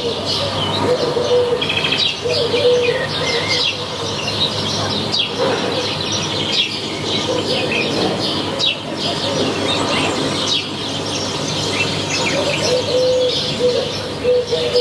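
A chorus of many small birds chirping and singing, with a dove's low cooing repeated over and over.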